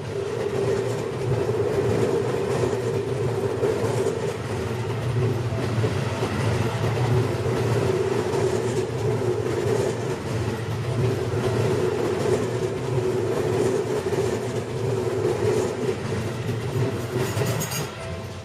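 Electric commuter train running past, a steady rumble and rail noise that lasts about eighteen seconds.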